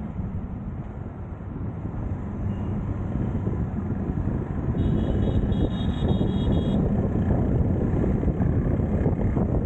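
Road noise from riding through city traffic: a steady low rumble of engines and tyres, with wind on the microphone. Around the middle comes a run of short, quick high-pitched beeps.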